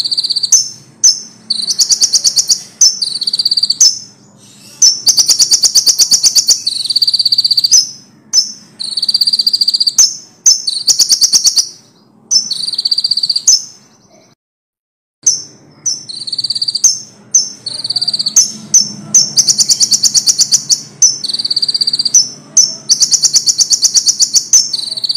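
A konin songbird singing loudly in rapid high-pitched trills and repeated chips, phrase after phrase, its song packed with imitated calls of other birds. The sound drops out completely for about a second just over halfway through.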